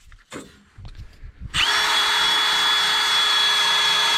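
A few light clicks, then about one and a half seconds in a power drill starts up and runs at a steady, high whine.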